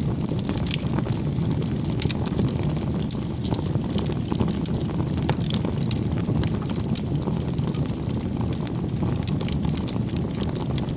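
Bonfire crackling: a steady low rumble of burning wood with frequent small, sharp crackles and pops.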